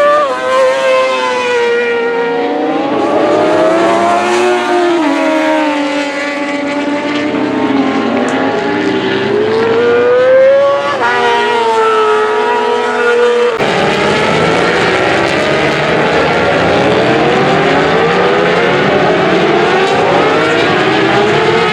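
Racing engines at speed, their pitch rising and falling as they accelerate and back off. About two-thirds of the way through the sound changes abruptly to several engines rising in pitch together.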